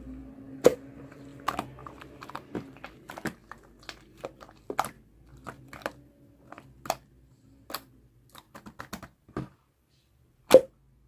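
Slime being pressed and played with by hand, giving irregular sharp pops and clicks, with one louder pop near the end.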